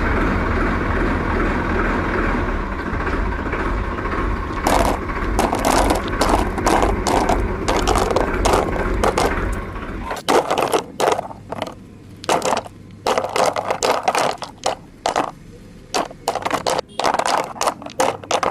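Toy vehicles scraping and crunching through soil and small stones: irregular scrapes and clicks. A steady low hum runs under them and stops about ten seconds in.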